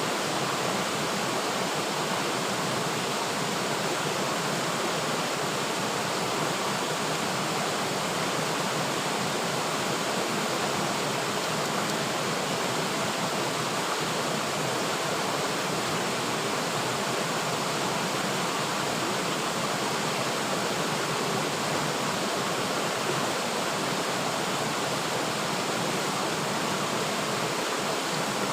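River water flowing steadily over rocks, a continuous even rushing with no breaks.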